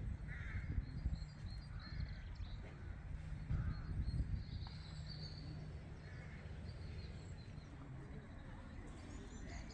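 Outdoor spring ambience: birds calling now and then, with several short, separate calls and fainter high chirps, over a steady low rumble.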